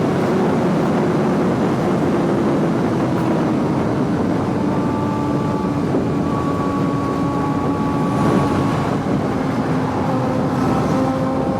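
Suzuki GSX-R sportbike engine running at a steady cruise under a dense rush of riding noise, its note sinking slowly as the revs ease off.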